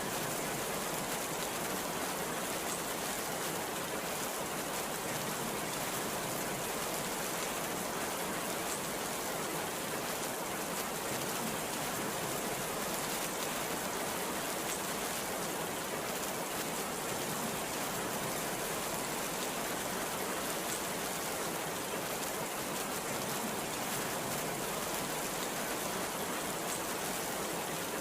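Heavy rain falling in a steady, even downpour, with no breaks or sudden claps.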